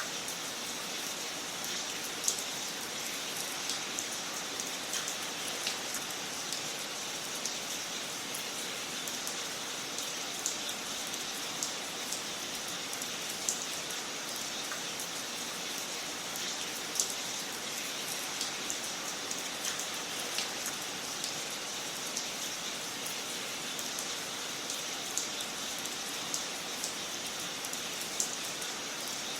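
Wood fire crackling in a fireplace: a steady soft hiss with frequent sharp pops and snaps at irregular intervals, a few of them louder.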